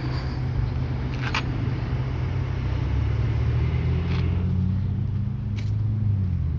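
A motor vehicle's engine running steadily at a low hum, its pitch rising slightly about four seconds in and settling back down near the end.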